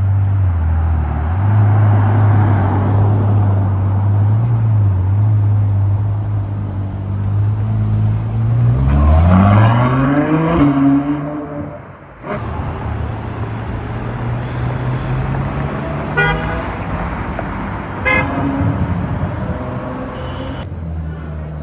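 Ferrari 812 Superfast's 6.5-litre V12 with a Novitec exhaust running at low revs, then revving up in a rising sweep about halfway through. After a sudden break the engine runs on steadily, with two short sharp blips near the end.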